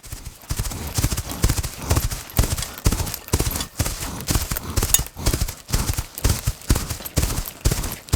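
Horse's hooves striking hard ground in a steady clip-clop, a few hoofbeats a second.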